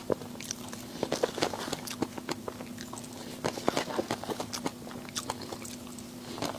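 A person chewing and biting crunchy food close to the microphone: a run of irregular crunching clicks and crackles, with a faint steady hum underneath.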